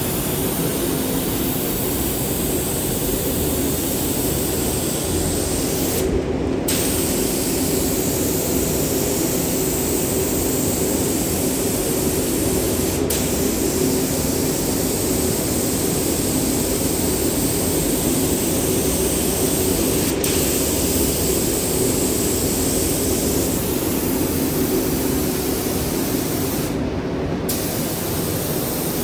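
Spray gun hissing steadily as it lays down a coat of primer-sealer, with a steady low hum underneath. The spray stops briefly twice, about six seconds in and near the end.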